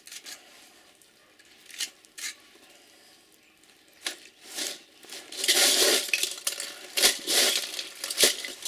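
Copper winding wire pulled from a refrigerator compressor motor being handled, with scattered light clinks at first and louder rustling and clattering of the wire and metal over the last few seconds.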